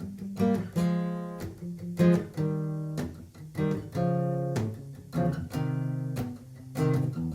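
Martin GPCPA4 steel-string acoustic guitar playing an instrumental intro: a run of plucked and strummed chords, each attack ringing on before the next.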